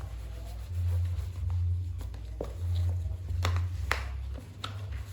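Handling noise: a few sharp clicks and taps over a low rumble that swells and fades.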